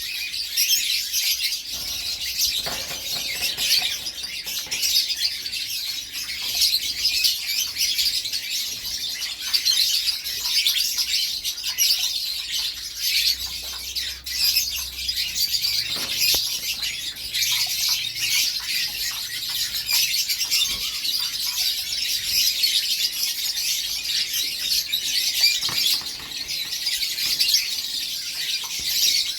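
Domestic canary singing a long, unbroken song of rapid high-pitched chirps and trills.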